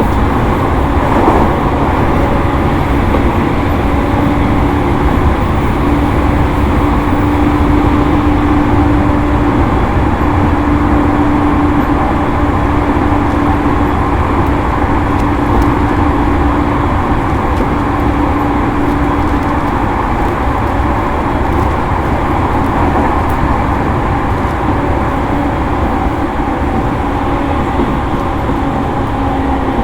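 Onboard running sound of a JR East E231-series electric train, heard inside the motor car: a steady rumble of wheels on rail with a constant hum from the traction motors and gearing as the train runs at an even speed. The hum fades out about two-thirds of the way through.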